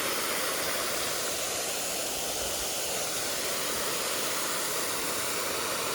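Mountain stream water flowing over rocks, a steady, even rush of running water.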